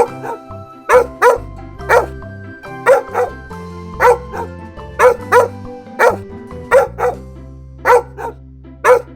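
A dog barking repeatedly, often two barks close together, about once a second. Background music plays underneath.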